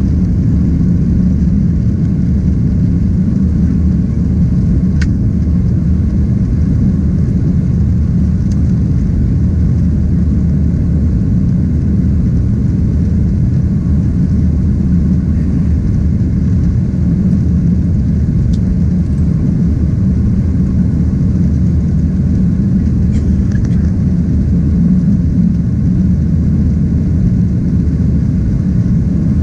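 Steady low drone of a Boeing 767-300ER heard from inside the passenger cabin, its jet engines and airflow running evenly, with a few faint ticks from the cabin.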